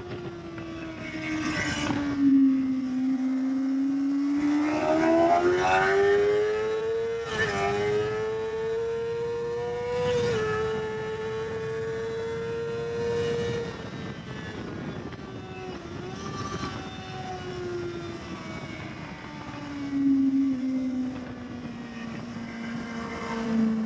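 Kawasaki ZX-6R 600 cc inline-four motorcycle engine heard from onboard. The note rises under acceleration over the first ten seconds, with short breaks, holds steady at high revs, then falls away as the bike slows, over a constant rush of wind.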